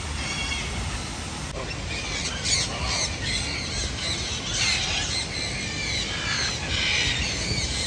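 A flock of birds squawking, with many short, harsh calls overlapping and growing busier after the first second and a half, over a steady low background rumble.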